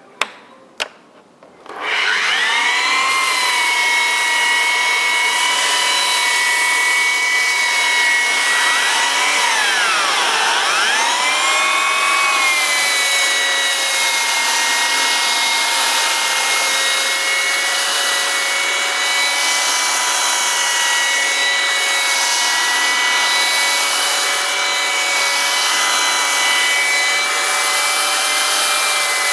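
Festool CTM 55 mobile dust extractor switched on after two clicks and running steadily, a loud motor whine over a rush of air. About ten seconds in, its pitch dips and comes back up.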